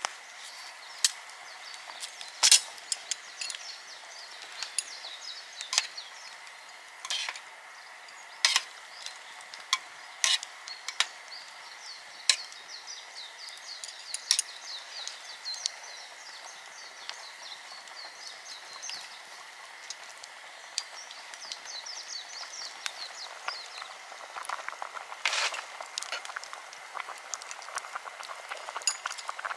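Irregular sharp cracks and clicks, a few of them loud, with a fast high trill of short repeated notes running through the middle and a faint steady high tone behind.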